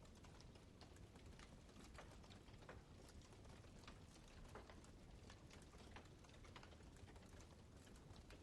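Wood campfire crackling: irregular small pops and snaps, several a second, over a steady low rumble of burning.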